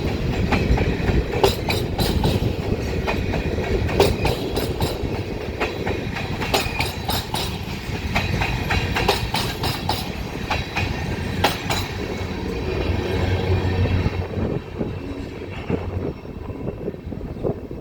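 Ferromex freight train's cars rolling past, wheels clacking over rail joints in clusters about every two and a half seconds over a steady rumble. The clacking and rumble die down after about 14 seconds.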